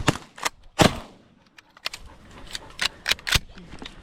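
Shotguns firing a string of about eight irregularly spaced shots from several shooters, some louder and closer than others.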